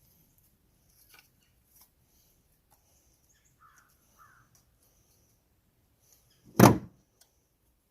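Faint light clicks and taps of hands working the sheet-metal fan shroud off a small engine, then one loud short thunk about six and a half seconds in.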